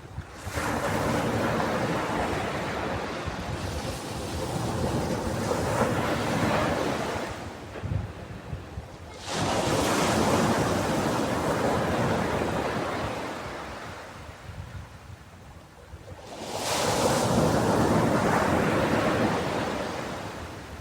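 Ocean waves breaking on a beach: three waves, each coming in with a quick rise and then slowly fading, about seven to eight seconds apart.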